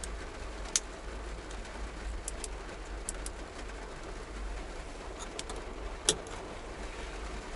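Steady rain with a low rumble under it, and scattered sharp drips landing close by, the loudest about a second in and near the six-second mark.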